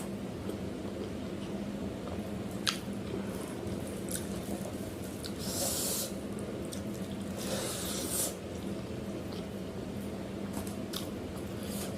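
Close-up eating sounds: wet squishing and chewing of food, with a sharp click between two and three seconds in and two short hissing bursts around six and eight seconds, over a steady low hum.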